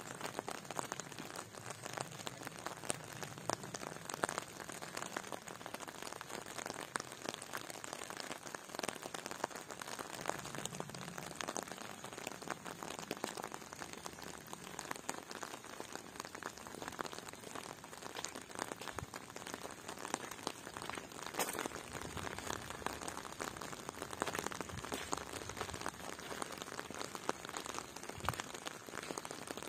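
Rain falling, a steady dense patter of many small drops.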